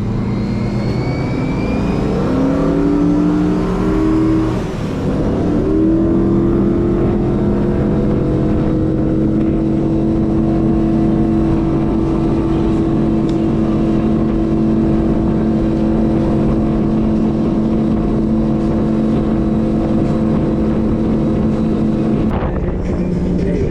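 Motorboat engine opening up, its pitch climbing over the first five seconds, then running steady at speed; the pitch drops about 22 seconds in as the throttle comes back.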